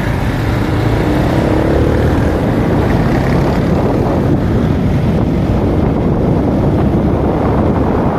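Runner Bullet 100cc motorcycle's single-cylinder engine running steadily on the move, with road and wind noise buffeting the microphone.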